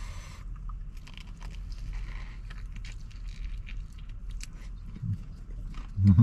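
Biting into a crispy breaded fried chicken sandwich and chewing it close to the microphone: soft crunches and many small wet chewing clicks.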